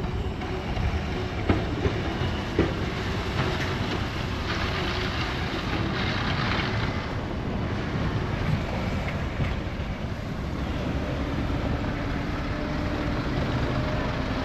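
Strong snowstorm wind buffeting the microphone over a steady low rumble of city traffic, with a louder gust of hiss about five seconds in.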